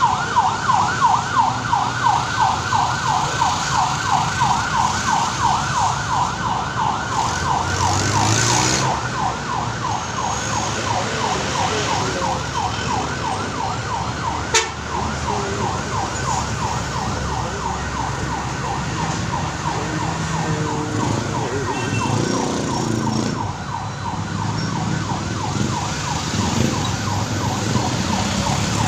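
Emergency vehicle siren in a fast yelp, about four rising sweeps a second, fading away past the middle, over steady road traffic noise. One sharp click about halfway through.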